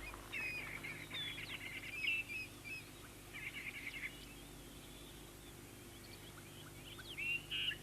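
Faint bush ambience of small birds calling: short chirps and whistles come and go, thinning out in the middle and picking up again near the end.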